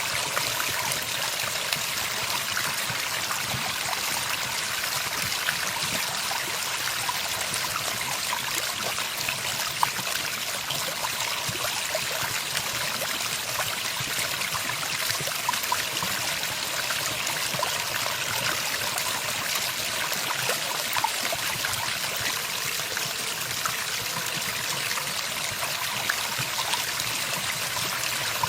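Running water: a steady trickling stream.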